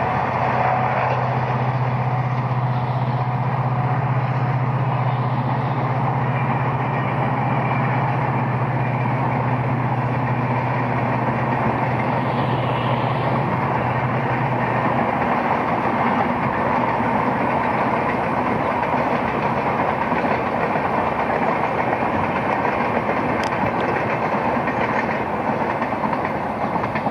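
Passenger train running over a river bridge: a steady rumble of wheels on the rails, with a low hum that stops about halfway through.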